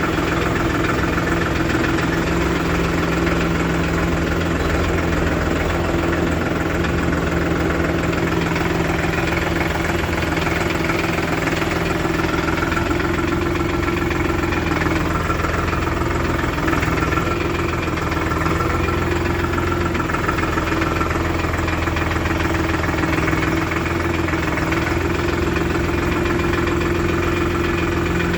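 Diesel engine of heavy farm or earth-moving machinery running steadily at an even speed, its pitch and loudness unchanging.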